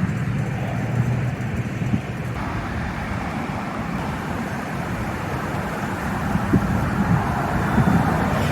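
Steady road traffic noise, passing vehicles making a continuous low rumble.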